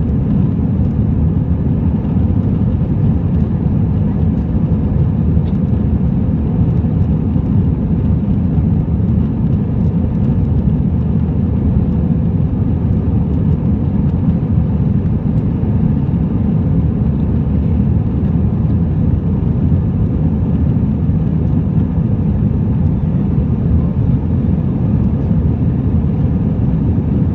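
Steady cabin noise of an Airbus A321-200 in flight, heard from inside the cabin: a constant low rumble of the jet engines and airflow that does not change.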